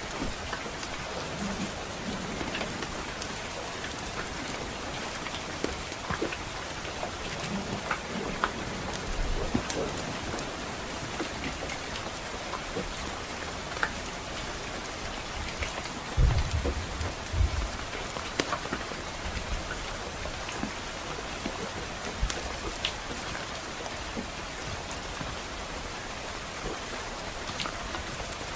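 Steady rain with scattered small crackles from a wood fire, and a brief low rumble of distant thunder about sixteen seconds in.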